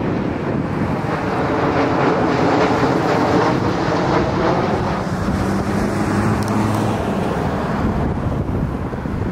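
Boeing 787-8 Dreamliner passing on its landing approach: a jet engine rush whose tones glide down in pitch as it goes by, loudest a few seconds in. Heavy wind noise on the microphone runs under it.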